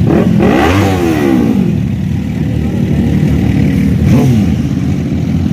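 Motorcycle engine idling, with a throttle blip about half a second in whose pitch rises and falls, and a shorter rev about four seconds in.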